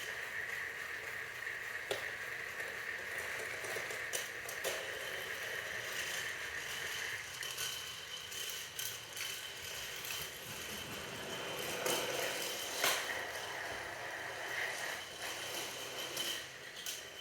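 A battery-powered toy train's small motor and gears whirring steadily as it runs along the track, with scattered clicks and knocks. The whirr weakens about halfway through, and a sharper knock comes about three-quarters of the way in.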